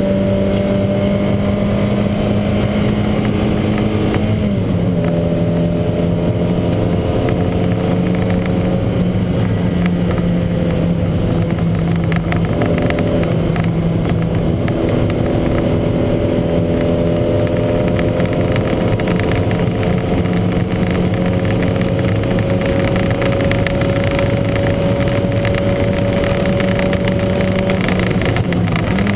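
Lancia Montecarlo four-cylinder race engine running hard at racing speed. The revs drop sharply about four and a half seconds in, as at a gear change, then climb slowly through a long pull, and drop again right at the end.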